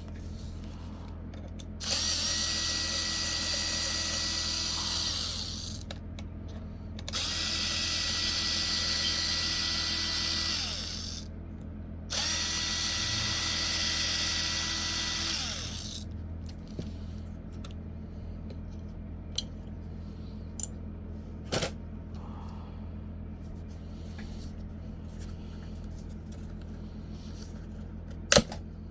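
Small power drill or electric screwdriver motor running in three separate bursts of about three and a half seconds each, with a steady whine. It is followed by scattered small clicks and one sharp click near the end.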